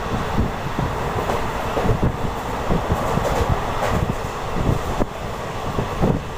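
Passenger train of the Deccan Queen Express running along the track: a steady rumble with frequent irregular knocks and rattles from the wheels and coach.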